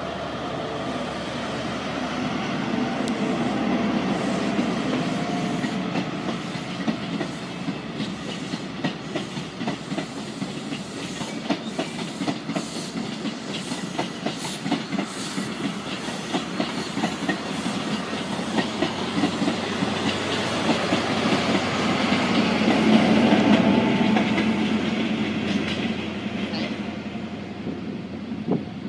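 InterCity 125 high-speed diesel train passing: the power car's diesel engine running, then the wheels clicking rhythmically over the rail joints as the coaches roll by. A second loud swell of engine sound comes about 23 seconds in, as the power car at the other end of the train goes past.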